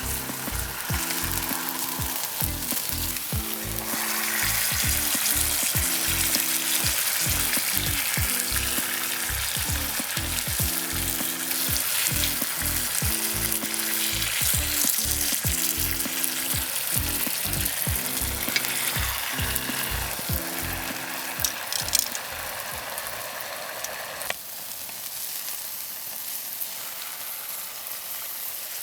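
Food sizzling and frying in a hot sandwich maker over a campfire, a steady hiss that eases off near the end. Under it runs background music with a repeating low bass line that stops about three-quarters of the way through.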